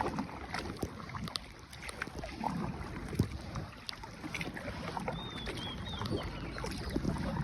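Small boat being paddled: water sloshing with scattered light knocks of the paddle. A few faint high chirps come about five seconds in.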